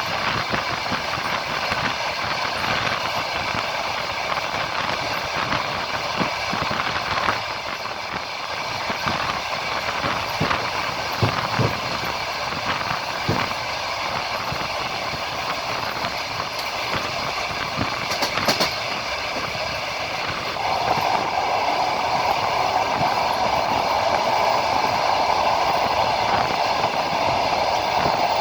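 Passenger train carriage running on the line, heard from the window: a steady rolling rumble of wheels on rails with scattered clacks at the rail joints. About two-thirds of the way through, a louder steady hum joins in and holds.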